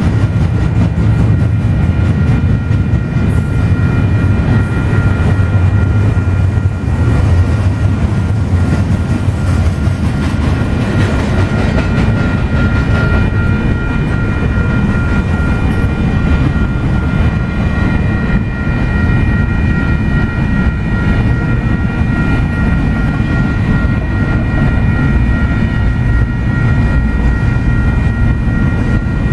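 Freight train rolling past a grade crossing: a loud, steady rumble and clatter of wheels on the rails, with steady high ringing tones over it.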